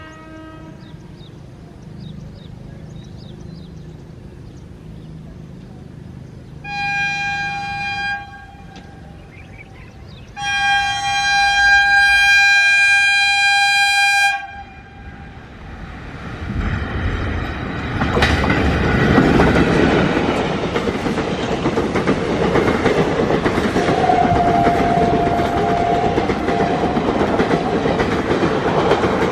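Indian Railways electric locomotive sounding its horn, a short blast and then a long blast of about four seconds, as the train approaches. The train then passes at full speed with a loud, steady rush and rumble of wheels on the rails.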